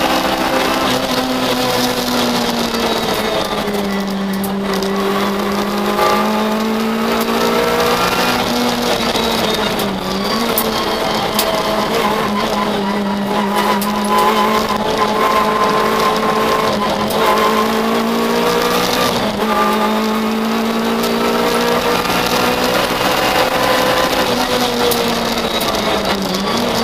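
Citroën Saxo VTS rally car's 1.6-litre sixteen-valve four-cylinder engine at high revs, heard from inside the stripped cockpit. Its pitch climbs and falls as the car accelerates and lifts, with a few short dips in pitch along the way.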